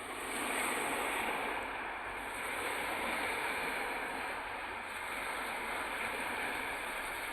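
Steady rushing of wind-driven lake waves and wind at a lakeshore, even and unbroken.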